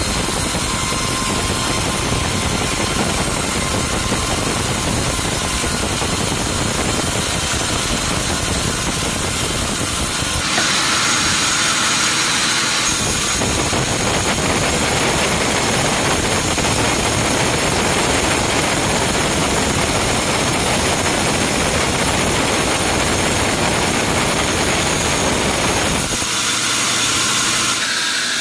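Sawmill machinery running with a loud, steady, hissing noise. The sound changes abruptly about ten seconds in, again a few seconds later, and near the end.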